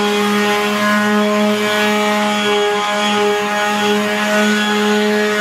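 Electric power sander running steadily against the door's surface, a constant motor hum over the hiss of sandpaper abrading the old finish.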